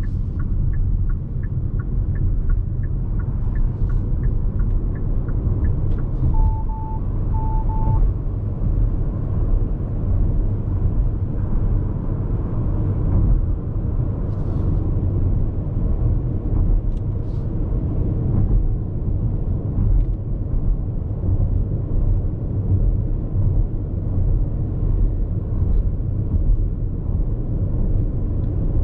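Steady low road rumble inside the cabin of a Hyundai IONIQ 5 AWD electric car cruising on an expressway, with no engine sound, only tyre and road noise. Faint regular ticking runs through the first few seconds, and two pairs of short electronic beeps sound about six to eight seconds in.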